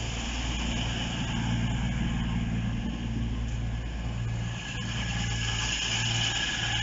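Avanti West Coast passenger train moving slowly along a station platform: a steady low hum that swells and dips about once a second, over a constant high hiss.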